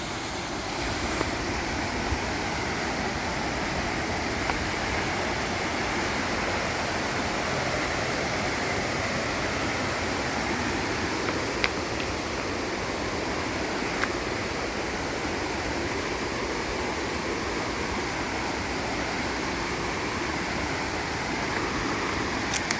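Mountain stream rushing over rocks: a steady rush of water, broken by a few brief sharp clicks.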